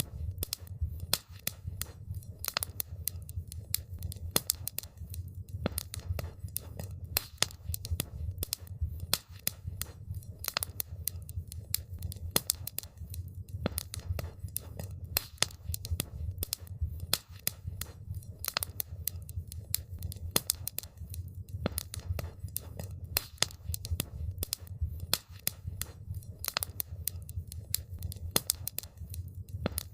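Wood campfire crackling: a dense, irregular run of sharp pops and snaps over a steady low rumble of the burning fire.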